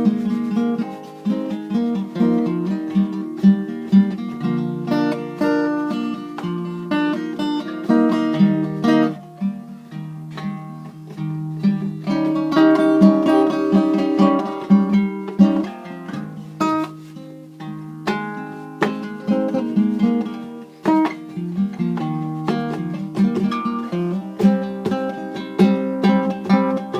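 Acoustic guitar played solo, strummed chords mixed with picked single notes.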